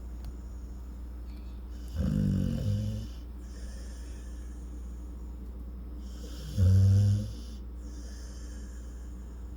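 Dog snoring in her sleep, like a human: two snores about four and a half seconds apart, each lasting about a second, the second louder.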